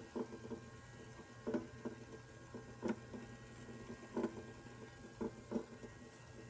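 Toy microwave running: a steady low hum with irregular clicks about once a second, often in pairs.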